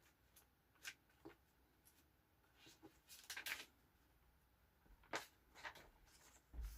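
Faint handling of paper and a journal at close range: soft rustles and small taps, with a brief bout of scratchy rustling around the middle and a low thump near the end.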